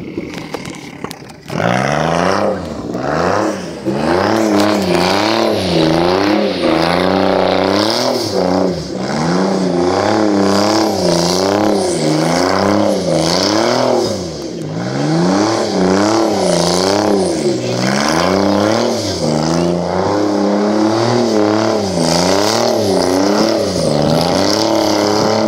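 Porsche engine revving up and down over and over as the car drifts around a cone on wet tarmac, its pitch rising and falling every second or two. It comes in loud about a second and a half in.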